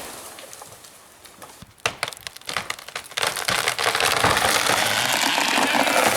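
A quick run of sharp, irregular cracks and snaps, then a steady, even rushing noise that builds toward the end.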